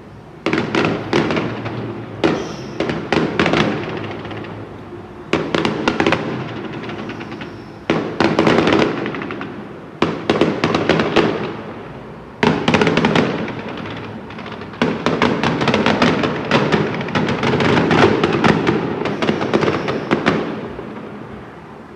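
Fireworks going off in repeated volleys of rapid crackling bangs, each wave starting sharply and dying away over a second or two, a new one every two to three seconds.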